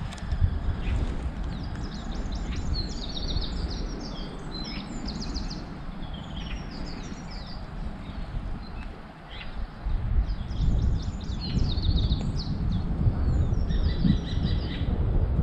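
Songbirds singing: clusters of quick high chirping phrases, repeated again and again. Underneath is a steady low rumble that grows stronger about two-thirds of the way in.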